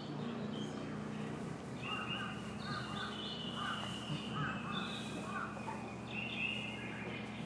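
Birds calling repeatedly: short calls and longer high, steady notes, over a steady low hum.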